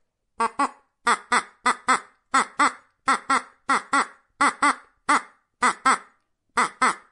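Young domestic ducks quacking: short calls, mostly in quick pairs, about one pair every half second, with a brief pause near the end.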